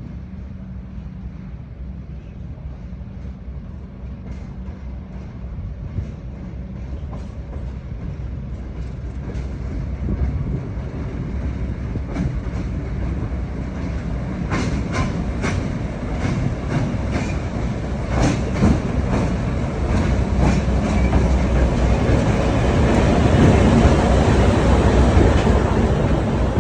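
Train running on the rails, its wheels clicking over the rail joints. The rumble builds in loudness and the clicks come thicker and louder through the second half.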